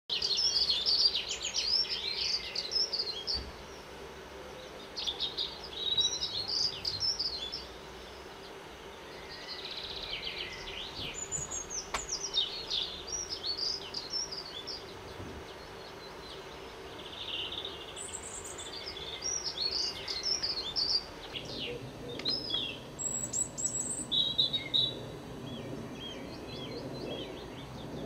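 Birds singing and calling in high, twittering phrases of a few seconds each, repeated with short pauses between them.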